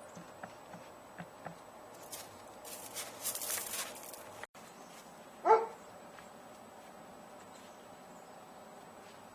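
A hissing, rustling noise for a couple of seconds, then after a brief cut a single short, loud animal call with a bending pitch.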